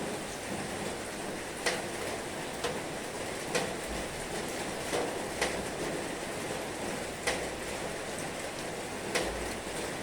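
Heavy rain falling in a steady hiss. Sharp drip-like taps land about every two seconds.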